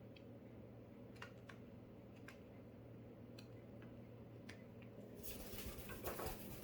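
Faint, scattered sharp clicks over a steady low electrical hum, then a rustling, shuffling noise that grows louder from about five seconds in.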